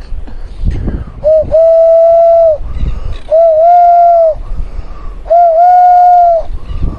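A man calling to birds with three long, steady hooting notes at one held pitch, each about a second long with a little catch at its start, with wind rumbling on the microphone between them.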